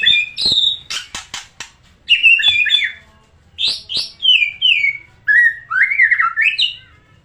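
White-rumped shama (murai batu) singing: loud phrases of varied whistles that slide down in pitch, with a quick run of sharp clicks about a second in.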